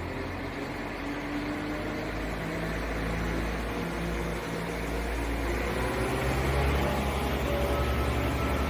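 Class 172 Turbostar diesel multiple unit pulling away, its underfloor diesel engines running under power. The engine note rises steadily in pitch and grows louder as the train accelerates.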